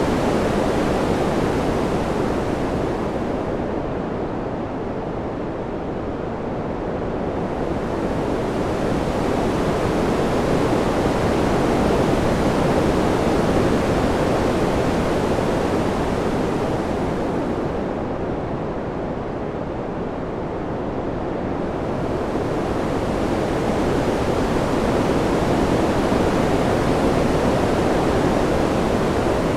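Wind blowing in slow, even swells, rising and easing about every fourteen seconds. At each lull the hiss thins and only a low rush remains.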